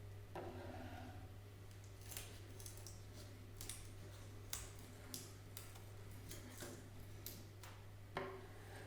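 A series of about a dozen short, sharp clicks or snips at uneven intervals, over a steady low hum.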